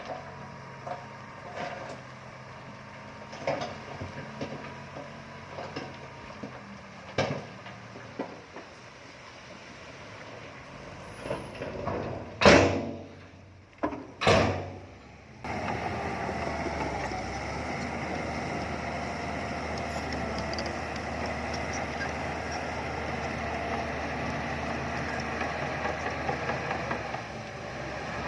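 Engines of heavy earthmoving machinery running, with scattered metal clanks and two loud bangs a little past the middle. About halfway through, the sound switches suddenly to a louder, steady engine drone.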